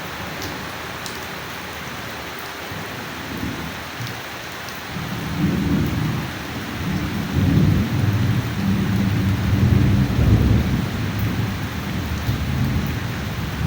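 Steady rain falling, with a deep rumble of thunder that builds about five seconds in and rolls on, strongest a few seconds later.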